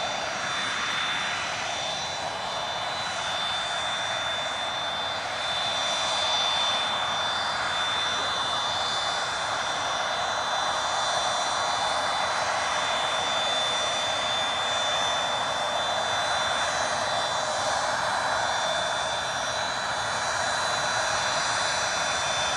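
Cessna Citation CJ2 business jet taxiing, its twin turbofan engines giving a steady rushing jet whine with high, even whistling tones.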